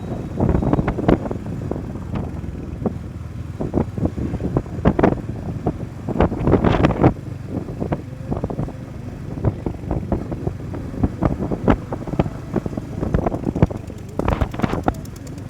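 Wind buffeting a phone's microphone on a moving motorcycle, in irregular gusty thumps over the low rumble of the ride.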